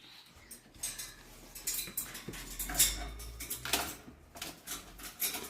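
Irregular clinks and knocks of a dish being handled, a dozen or so sharp strikes, the loudest about three seconds in, over a low rumble.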